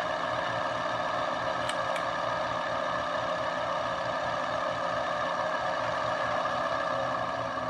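Ceiling fan motor running steadily at medium speed, a smooth even hum and whir, its bearings freshly flushed and refilled with Tri-Flow lubricant. Two faint ticks come about two seconds in.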